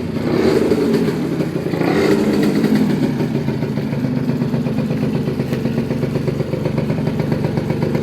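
Honda NS50F's 50 cc two-stroke single engine, fitted with a swapped carburettor, running with a low burble. The throttle is blipped twice in the first few seconds, pitch falling back after each, before the engine settles into a steady idle.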